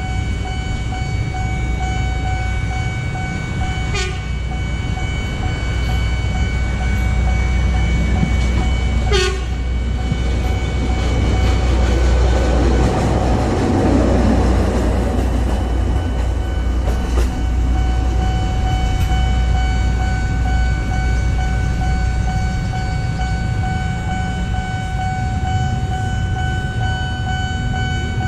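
A train running: a steady low rumble under a continuous high whine, with two sharp clicks about four and nine seconds in and a swell of rushing noise around the middle.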